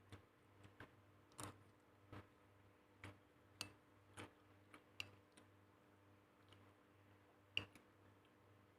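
Sparse, irregular light taps and clicks, about a dozen, the sharpest one near the end, over a faint steady low hum.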